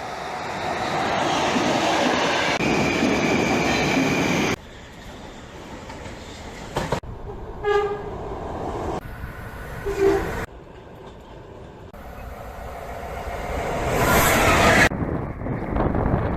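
EP20 electric locomotive and express passenger train passing at speed, a loud rushing rail noise with wheel clatter that swells again near the end. Two short horn blasts sound about 8 and 10 seconds in, and the sound jumps abruptly in level several times.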